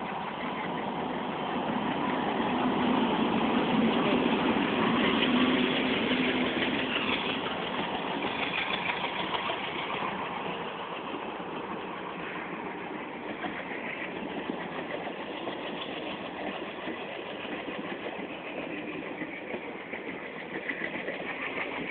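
WDM-2 diesel-electric locomotive's ALCO 16-cylinder engine running as the train draws in. It grows louder over the first few seconds, is loudest about five seconds in, then eases off and runs steadily.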